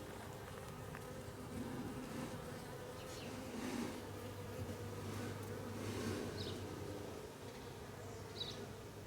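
Honey bees buzzing around a hive, a steady hum of many wingbeats.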